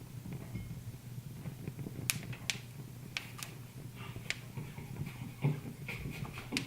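Wood fire crackling in a fireplace: scattered sharp pops and snaps, about a dozen, irregularly spaced, over a steady low hum.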